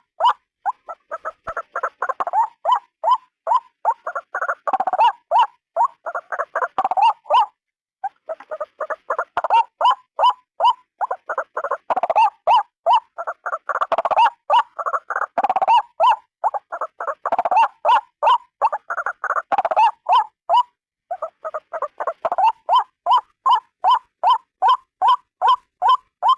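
White-breasted waterhen calling: a long series of harsh, rapidly repeated croaking notes, about three or four a second, broken by two short pauses.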